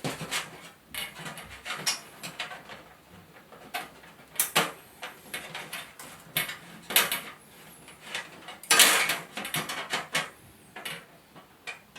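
Irregular clicks, taps and light rattles of parts being handled as new LED backlight strips are fitted inside a 32-inch LCD TV, with a louder burst of rattling about nine seconds in.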